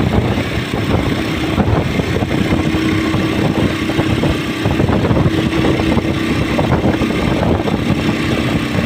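Motorcycle running steadily while being ridden along a road: a steady engine hum over a dense, even rush of noise.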